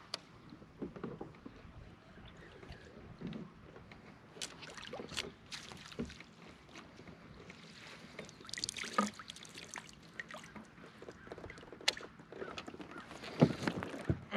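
Handling sounds aboard a fishing kayak: scattered light knocks and clicks on the hull and gear, with a short splashy rush about nine seconds in and another near the end.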